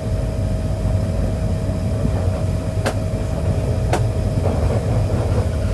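Moving passenger train heard from inside a carriage: a steady low rumble with a thin steady hum over it. There are two sharp clicks, about three and four seconds in.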